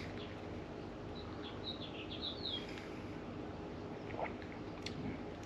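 A bird sings a short run of quick, high chirps, each sliding down in pitch, starting about a second and a half in, over a steady low background hum.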